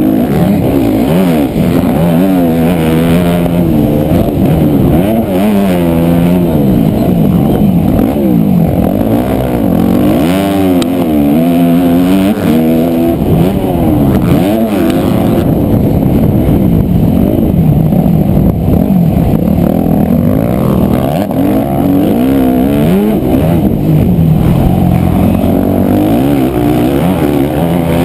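Motocross dirt bike engine heard from the bike while riding, revving up and falling off again and again through the throttle and gear changes.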